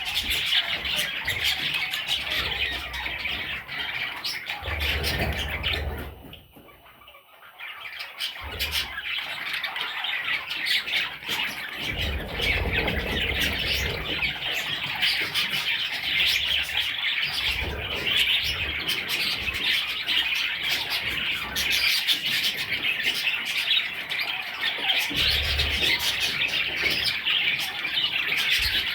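Many budgerigars chattering, chirping and squawking together in a dense, continuous din. The chatter drops away briefly about a quarter of the way in, then resumes.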